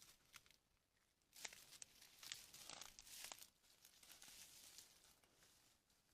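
Faint irregular rustling and crackling, as of an animal moving or foraging in dry leaf litter on the ground, strongest between about one and a half and three and a half seconds in.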